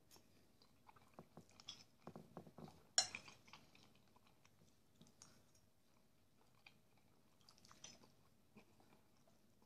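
Quiet close-up chewing and mouth sounds of a man eating fried sausage with porridge, with soft smacks throughout and a sharp click about three seconds in.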